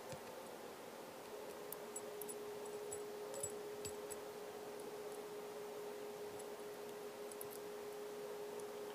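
Faint steady background hiss with a thin, steady hum-like tone that comes in about a second in. A few faint light clicks are scattered through it, from small parts being handled at the workbench.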